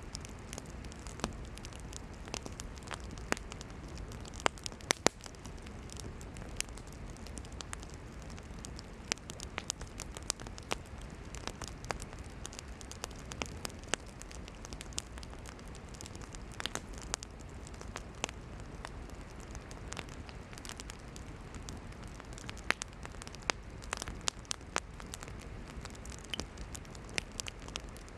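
Campfire of burning firewood crackling, with irregular sharp pops and snaps over a steady hiss and low rumble of the flames.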